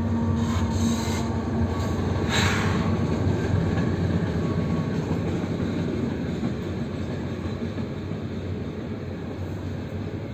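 KCSM GE ES44AC diesel locomotive passing close by, its GEVO V12 engine running as a steady low tone. It is followed by a rumble of freight cars rolling over the rails that slowly fades as the cars go by.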